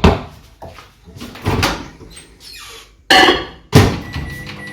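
Knocks and squeaks of a bowl going into a microwave oven and the door being shut, with a loud clunk a little before the end. The microwave then starts running with a steady hum in the last second.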